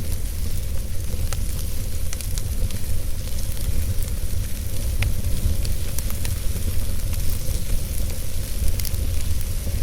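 Wood fire burning in a fireplace: a steady low rumble and hiss of flames with scattered sharp crackles and pops from the burning logs.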